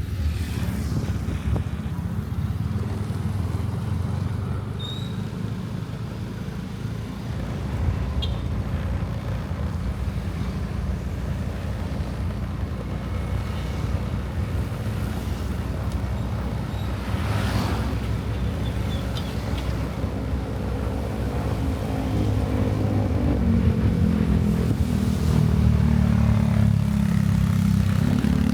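Motorcycle engine running under way, with a steady low rumble and road and wind noise. From about twenty seconds in the engine note rises and grows louder as the bike accelerates.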